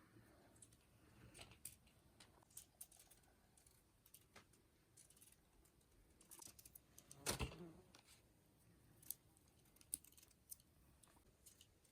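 Faint, scattered small clicks and taps, with one louder knock about seven seconds in.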